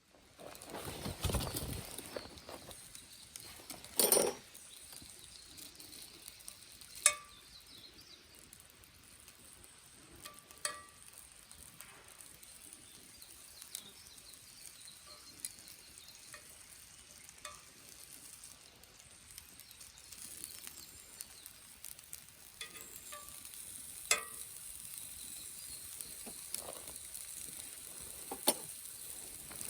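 Wood campfire crackling: scattered sharp pops over a soft hiss, with one louder knock about four seconds in.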